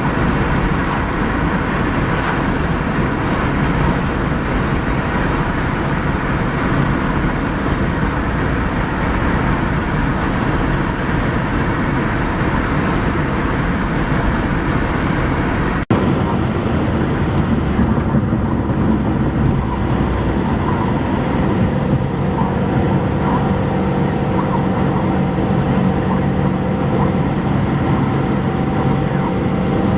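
Loud steady rushing noise of wind and a moving vehicle. About sixteen seconds in it cuts sharply to a slightly different noise with faint steady tones over it.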